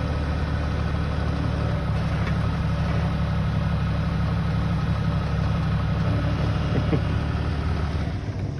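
Forklift engine running steadily while it holds the truck cab up off the frame. The drone fades away shortly before the end.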